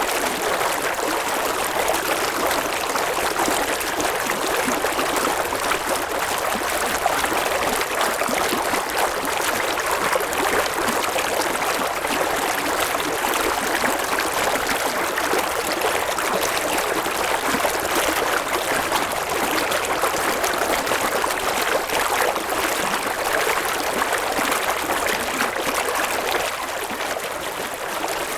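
A river flowing over rocks: steady rushing and babbling water.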